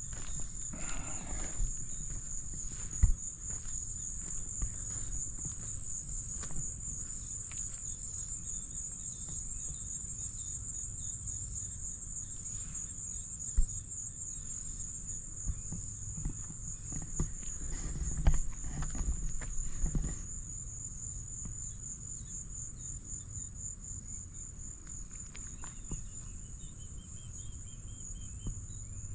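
Steady, high-pitched trilling of an insect chorus, crickets or similar, with a fine pulsing to it. A few sharp knocks and rustles come through over a low rumble, and a short chirping series sounds near the end.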